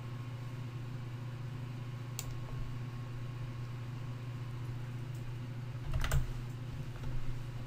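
A few sparse clicks on a computer keyboard over a steady low electrical hum.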